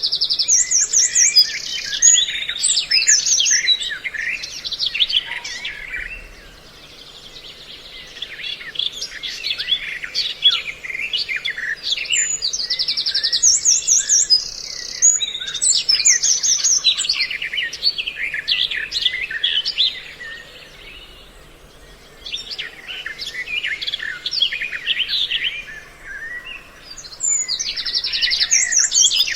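Mixed songbird calls from a bird-call lure recording: a dense chorus of chirps, trills and chattering. The same phrases come back about every 14 seconds, with short lulls between them.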